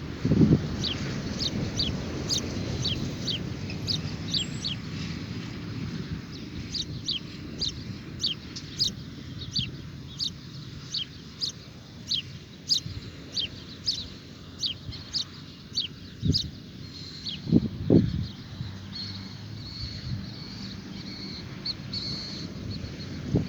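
Birds calling at dawn: one bird repeats short, high, downward-sliding chirps about twice a second, over a low rumble, with a few low thumps about 16 to 18 seconds in.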